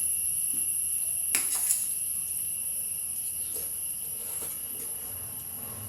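Two light clicks of a spoon against a plate while eating, about a second and a half in, over a steady high-pitched background drone.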